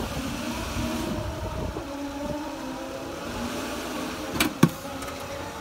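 A 2006 Pontiac G6's 3.5 L V6 idling steadily, with two short knocks close together about four and a half seconds in.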